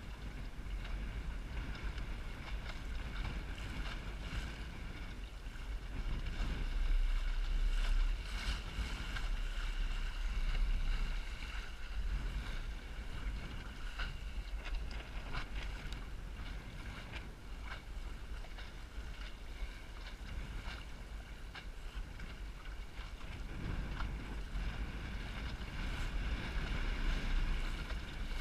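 Wind buffeting the microphone of a Snark sailboat under way in high wind, over a steady rush of water with many short splashes and slaps against the hull. It swells louder twice.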